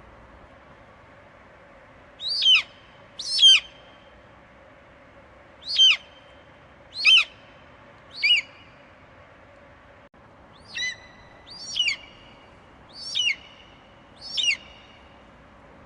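An eagle screeching: nine short, shrill calls, each sliding down in pitch, repeated at uneven intervals of one to two and a half seconds.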